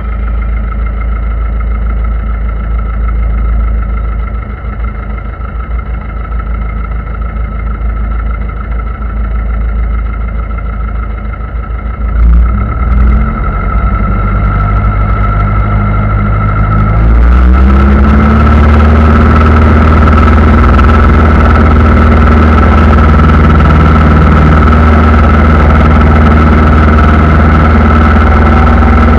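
Aircraft engine running steadily, then throttled up about seventeen seconds in: its pitch rises and it becomes much louder, holding steady at the higher setting. A brief knock and a short rise in pitch come a few seconds earlier.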